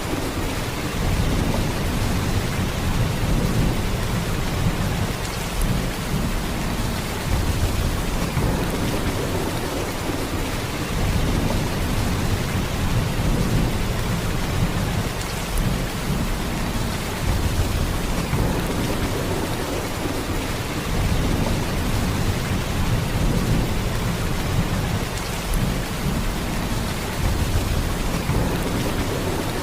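Heavy rain falling in a steady, even downpour, with a deep low rumble underneath that swells and eases every few seconds.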